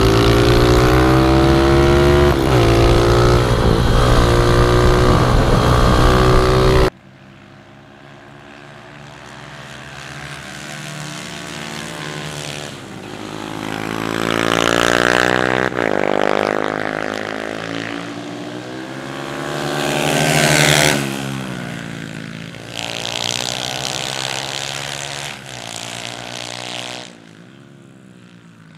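Pit bike engines racing. For about seven seconds one engine runs loud and close, revving up and down. After a sudden cut, bikes swell and fade as they pass, with the loudest passes about halfway through and again about two-thirds of the way in.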